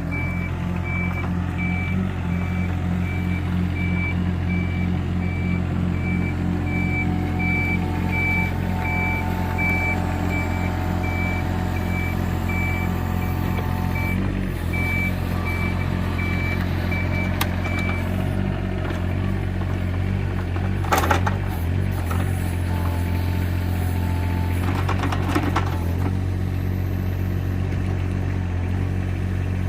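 Mini excavator's diesel engine running steadily while its travel alarm beeps regularly for the first eighteen seconds or so. Then come a few short metal clanks and rattles.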